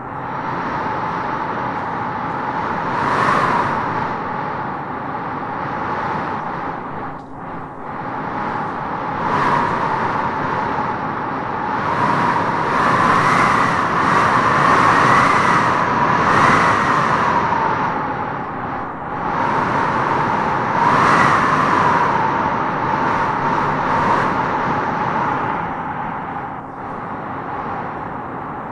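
Wind blowing in gusts, with a howling whistle that rises and falls in pitch as each gust swells; the strongest gusts come around the middle and again about three quarters through.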